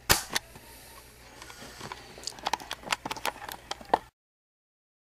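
A sharp click, then a run of irregular light clicks and knocks over faint room hum, ending in a sudden cut to dead silence about four seconds in.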